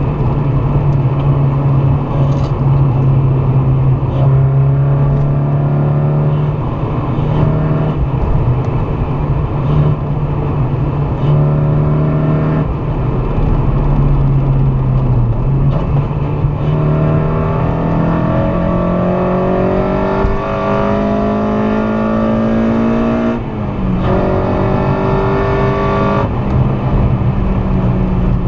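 Honda K24A2 2.4-litre four-cylinder engine of a swapped Civic Si, driving at speed. The engine note holds fairly level, then from about halfway climbs steadily through the revs for several seconds and drops sharply with an upshift near the end, over steady road noise.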